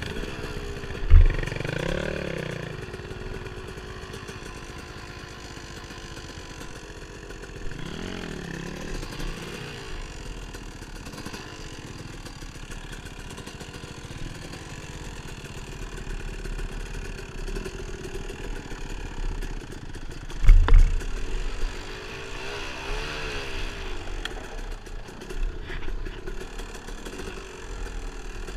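Dirt bike engine running on a trail ride, its pitch rising and falling as the throttle is worked, with clattering over rough ground. Two heavy thumps stand out, about a second in and about twenty seconds in.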